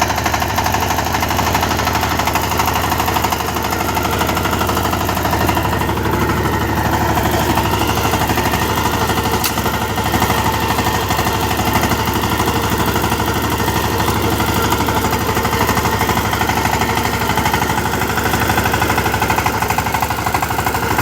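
Power tiller's single-cylinder diesel engine running steadily, with a fast, even knocking beat.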